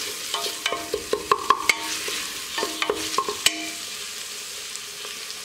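Onion, garlic, ginger and chopped tomato sizzling in coconut oil in a stainless steel pressure cooker, stirred with a wooden spatula that knocks and scrapes against the pot, the steel ringing briefly after the knocks. The knocks stop about three and a half seconds in, leaving the sizzle.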